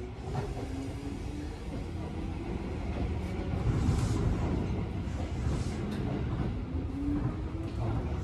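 Seibu New 101 series electric train accelerating away from a station, heard from inside the car. A low rumble of wheels on rail runs under a motor and gear whine that climbs in pitch as speed builds.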